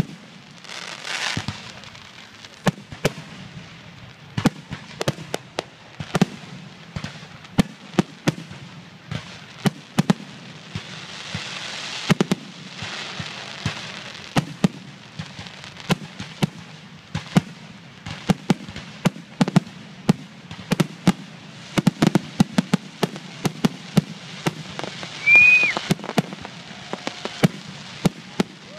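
Fireworks grand finale: aerial shells bursting in quick, dense succession of sharp bangs, with stretches of hiss and crackle between them. A brief high whistle sounds near the end.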